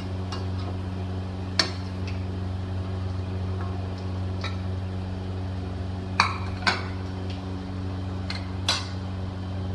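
A metal utensil clinks sharply against cookware four times, two of them close together past the middle, over a steady low hum.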